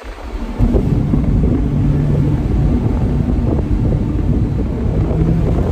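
Mazda MX-5 Miata RF's 2.0-litre four-cylinder engine with an aftermarket exhaust, pulling loud and steady under acceleration, heard from inside the cabin with wind noise on the microphone. It comes in sharply about half a second in.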